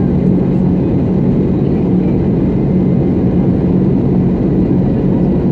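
Jet airliner's engines and rushing air heard inside the passenger cabin during the climb after takeoff: a dense, steady low drone with a constant hum.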